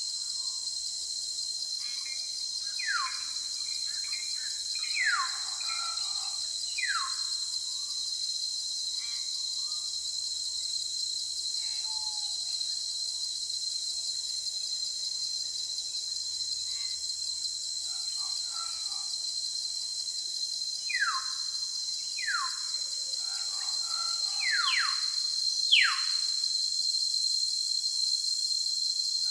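Steady high-pitched insect chorus, with a bird giving short, sharp downward-sliding whistled calls in two bursts, a few seconds in and again near the end, the last ones the loudest.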